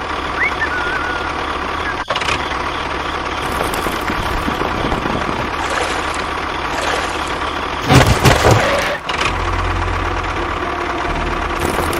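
A small motor or engine running steadily. There is a louder burst for about a second, some eight seconds in.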